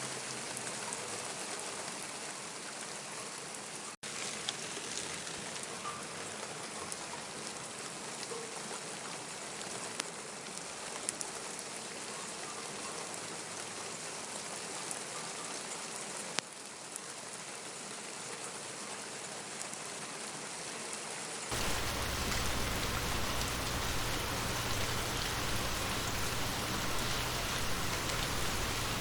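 Steady rain falling, an even hiss with a few sharp drip ticks. About three-quarters of the way through, the rain sound abruptly becomes louder and fuller.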